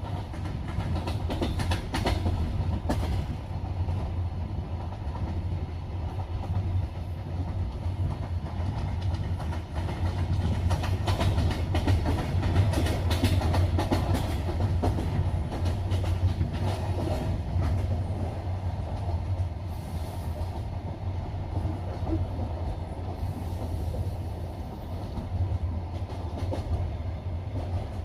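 Double-deck passenger train running at speed, heard from inside the carriage: a steady low rumble with the wheels knocking over rail joints, the clickety-clack coming irregularly throughout.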